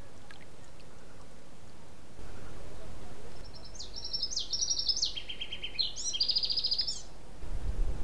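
A songbird singing one song of fast trills, the phrases jumping between higher and lower pitches, over a low steady rumble.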